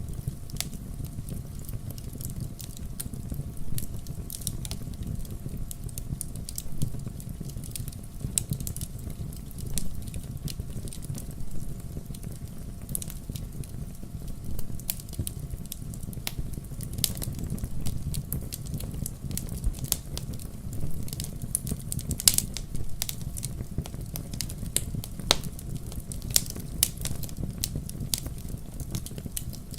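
Wood fire burning in a fireplace: a steady low rumble of flames with irregular crackles and sharp pops, a few louder pops in the second half.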